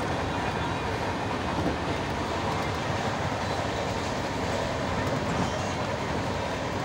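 Steady running noise of an Indian passenger train coach heard from inside: the rumble and rattle of the wheels on the rails, with no break or change.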